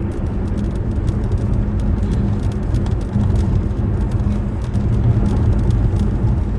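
Steady engine and road noise of a car driving, heard from inside the cabin as a continuous low rumble.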